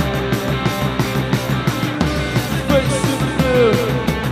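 Live rock band playing the instrumental opening of a song, with a fast, steady drum beat under electric guitar and bass. A bending, wavering note comes in about three seconds in.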